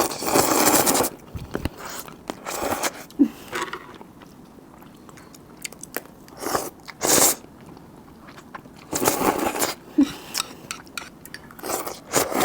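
Crab legs being bitten and cracked open by mouth while eating, crunching in irregular bursts with close-up chewing between.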